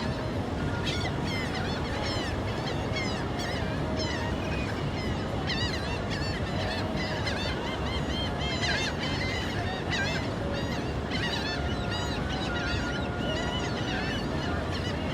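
A flock of gulls calling, many short, arching cries overlapping one another continuously, over a steady low background rush.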